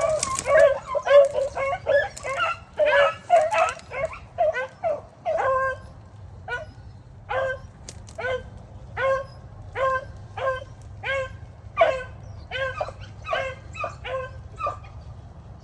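A pack of beagles barking: several dogs at once at first, then a single dog barking on and off, about one to two barks a second, until it stops shortly before the end.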